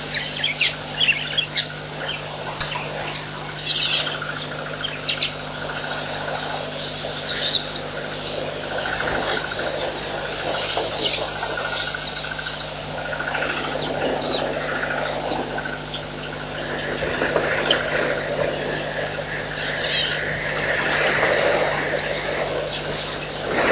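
Wild birds chirping in many short, high calls, most thickly in the first several seconds, over a steady low hum.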